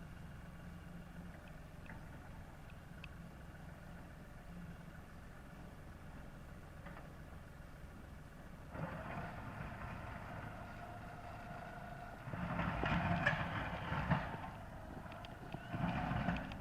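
LS 4135 compact tractor's diesel engine running at low throttle, then working harder from about halfway in, with a steady whine over it and two louder surges near the end: the tractor pushing snow with its front plow blade.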